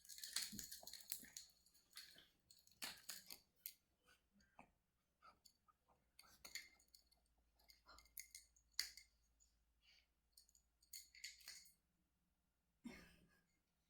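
Near silence broken by faint, irregular clicks and rustles of handling and small movement, with a sharper click about nine seconds in and a brief rustle near the end.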